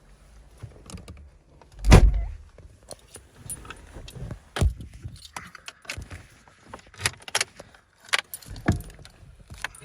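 Irregular clicks, rattles and knocks of handling, like keys and car fittings being handled, with one loud thump about two seconds in; no engine running steadily.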